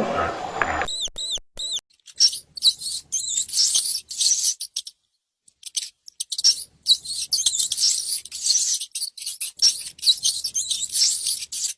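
High-pitched animal squeaking and chirping. About a second in come three arched chirps, then fast twittering chatter in bursts, broken by a silence of nearly two seconds in the middle.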